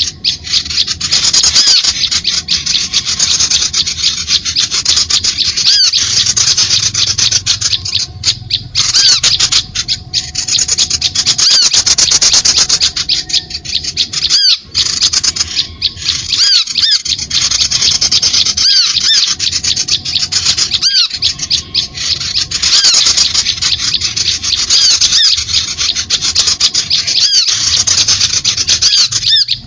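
Bird-lure recording of dense, rapid, high-pitched bird chattering with repeated short arched notes, running loudly with brief breaks every few seconds.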